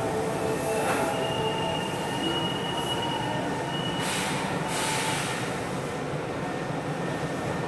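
Refurbished Osaka Metro 66 series subway car running and slowing, heard from inside. Its Toshiba IGBT inverter tones fade out about a second in, then the wheels give a high steady squeal for about two seconds over the rumble of the rails, with two short hisses near the end.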